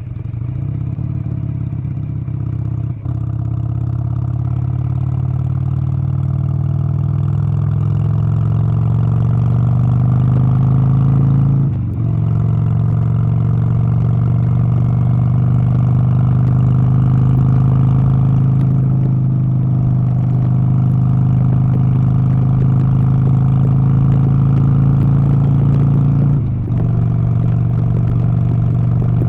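An engine running steadily and loudly, with short drops in the sound about three seconds in, around twelve seconds, and a few seconds before the end.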